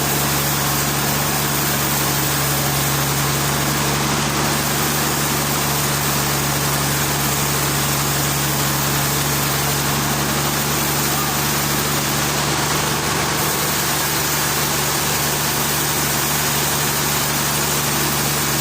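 A machine running steadily: a constant low hum with an even hiss over it, unchanging throughout.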